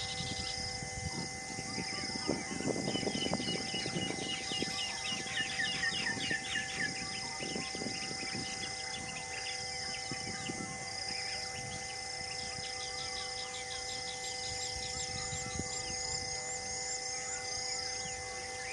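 Several wild birds chirping and calling, one repeating a short high call about once a second, others giving quick runs of repeated notes between about three and seven seconds in, over a steady faint hum.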